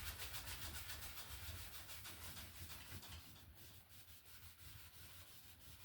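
A 1-inch brush blending wet phthalo blue over liquid white on canvas: a faint, quick, rhythmic scrubbing of bristles on canvas, about five strokes a second.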